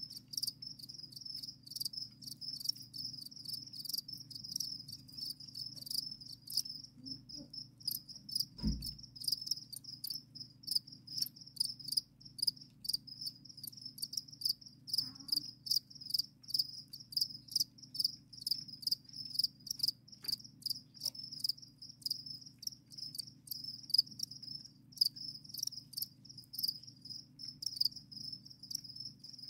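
Crickets chirping continuously, a fast train of short high-pitched pulses with several insects overlapping, over a faint low hum; a single soft knock about a third of the way in.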